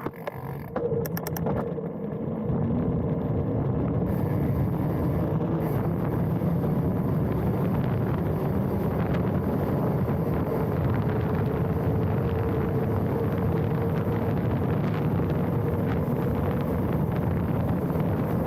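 Wind rushing over a handlebar-mounted action camera and mountain-bike tyres rolling over a dirt trail, a steady ride noise. It builds over the first couple of seconds as the bike picks up speed, with a few clicks about a second in, then stays level.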